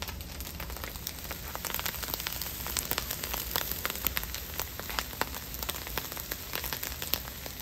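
Rice frying in hot oil with the carrots and onions in the pan, a steady sizzle full of scattered crackling pops.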